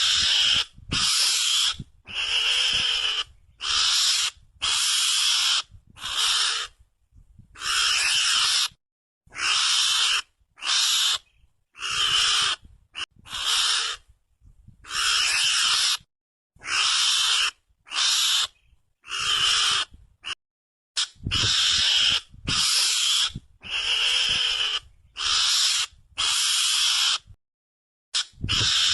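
Recorded Javan mongoose (garangan) calls played as a hunting lure: a long series of short, hissy calls, each under a second, repeating about once a second with brief silent gaps.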